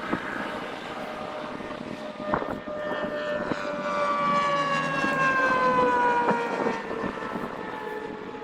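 Propeller airplane flying over, its engine drone sliding slowly down in pitch as it passes, loudest in the middle. A few light knocks sound along the way.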